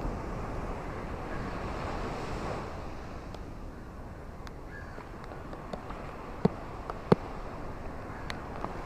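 Ocean waves washing onto the shore, a wave surging up and falling back in the first few seconds. A few sharp clicks cut through, two of them louder, about six and a half and seven seconds in.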